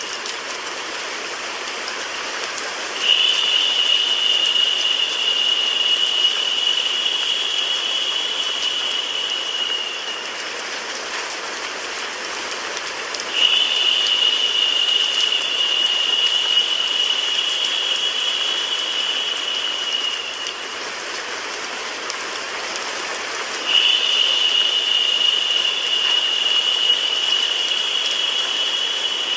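Recorded rain mixed with white noise: a steady, even hiss, joined three times by a louder, higher-pitched hiss that comes in suddenly, holds for about seven seconds and drops away, repeating about every ten seconds like a loop.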